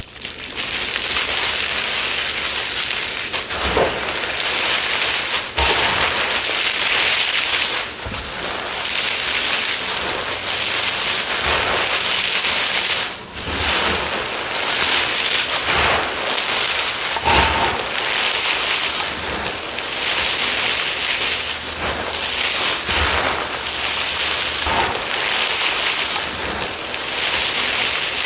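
Crunchy ASMR material being crushed, a continuous dense crackling crunch with a brief let-up about halfway through.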